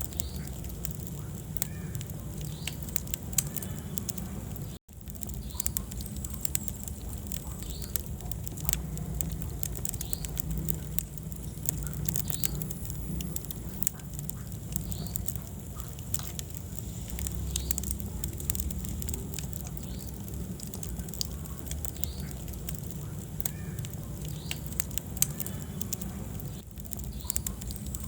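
Wood fire in a fireplace crackling, with many sharp pops over a steady low rumble of flames. The sound cuts out for a split second about five seconds in.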